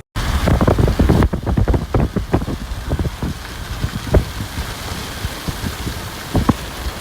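Heavy rain, with large drops striking a surface close to the microphone as sharp taps over a steady hiss. The taps come thick and fast for the first three seconds, then only now and then. The sound starts abruptly after a short gap.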